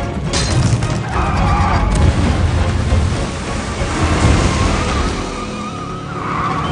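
Action-film car-chase soundtrack: dramatic music over heavy engine rumble and booming crash effects.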